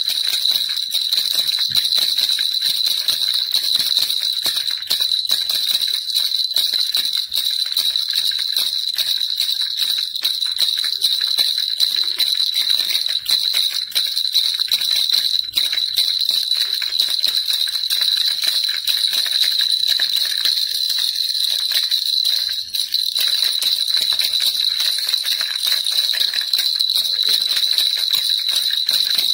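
Baby rattle shaken continuously, giving a steady, dense jingle with no pauses.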